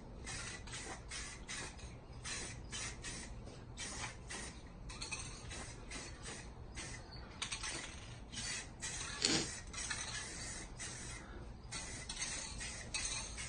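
Aerosol spray paint can sprayed in a run of short hissing bursts, with a louder, fuller sound a little past the middle.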